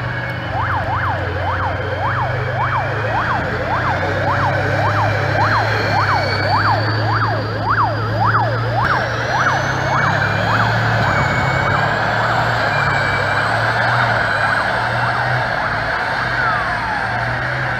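Vehicle siren in a fast yelp, its pitch sweeping up and down about two and a half times a second, over the steady hum of a heavy engine. The yelp fades out about two-thirds of the way through, and a single falling sweep follows near the end.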